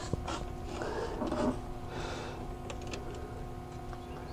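Hands working the starter's wiring and connector deep in the engine bay: a couple of sharp clicks at the start, some rustling about a second in and a few light ticks later, over a steady faint hum.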